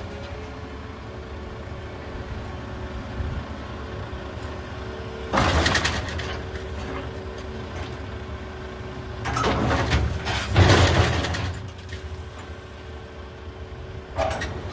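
Volvo EC380EL excavator's diesel engine running with a steady hydraulic whine, broken by loud bursts of rock clatter and scraping about five seconds in, around ten seconds in, and near the end, as large rocks are handled and loaded into a dump truck.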